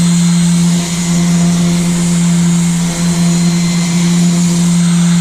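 Power sander with a spinning pad running steadily while sanding the boat: an even hum with a hiss of abrasion above it.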